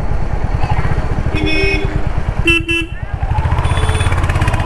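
Royal Enfield Hunter 350's single-cylinder engine running at low revs in traffic, its firing pulses steady. Two short vehicle horn honks sound in the first half.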